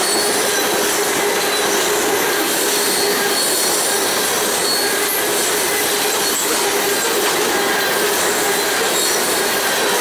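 Freight train of grain hopper cars rolling past at a steady, loud level, its steel wheels squealing against the rails with a high, wavering ring over the rumble of the cars.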